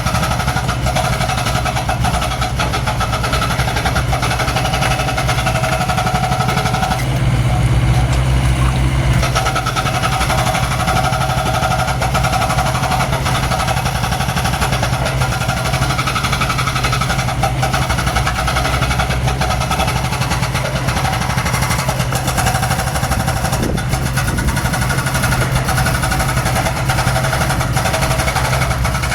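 Mini excavator's diesel engine running steadily under work. About seven seconds in, the engine note deepens and grows louder for roughly two seconds, then settles back.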